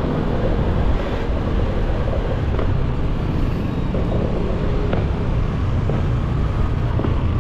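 Motorcycle engine running steadily while riding, under a dense, even low rumble of wind and road noise on the camera's microphone.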